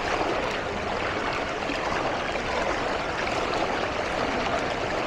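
Steady rushing of moving water, an even noise with no distinct splashes or knocks.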